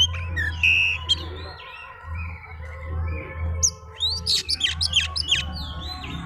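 Oriental magpie-robin (kacer) singing in full voice: a varied string of whistles, gliding notes and chirps, with a quick run of sharp notes about two-thirds through. A steady low hum lies underneath.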